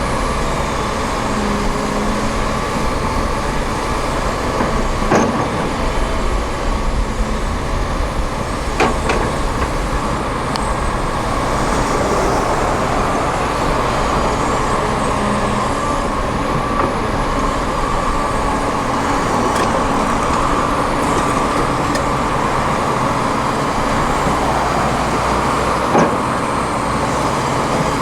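Heavy diesel construction machinery running steadily, with a few sharp metal clanks.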